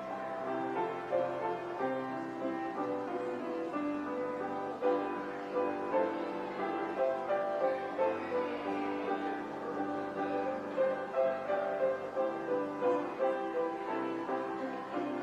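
Piano music: a melody of held notes over chords.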